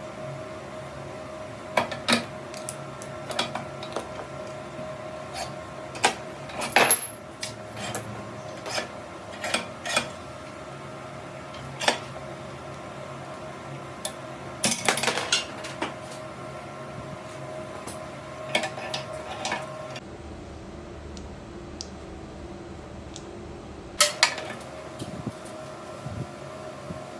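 Metal parts clinking and clanking irregularly, several sharper clanks among lighter taps, over the steady hum of a running machine.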